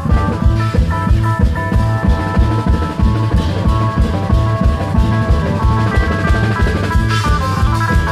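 Thai klong yao long-drum troupe playing: a fast, dense run of drum strokes under held melodic notes that step from one pitch to another.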